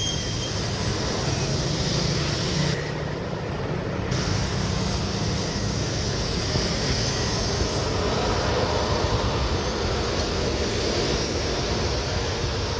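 Jet airliner's engines running, a steady, continuous rumble.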